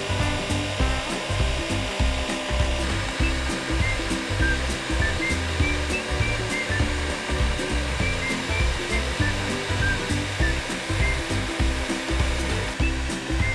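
Hand-held hair dryer blowing steadily, with background music that has a rhythmic bass line and short high melody notes.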